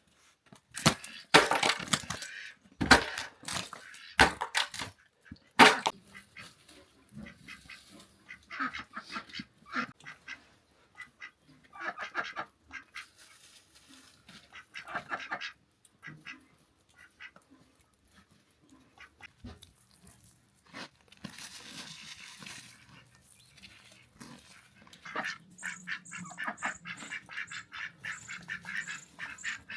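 Domestic fowl calling: a burst of loud, harsh calls in the first few seconds, scattered calls through the middle, and another run of repeated calls near the end.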